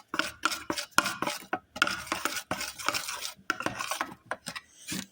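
A utensil stirring and scraping through a bowl of slime mixture made of glue, contact lens solution and face wash, in quick irregular strokes with clinks against the bowl. The strokes stop suddenly near the end.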